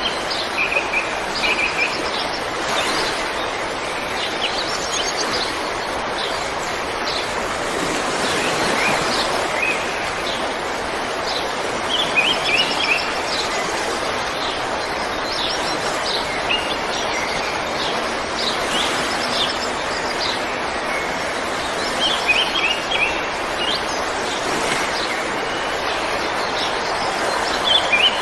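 River water flowing steadily, with birds chirping over it in several short runs of quick, high notes.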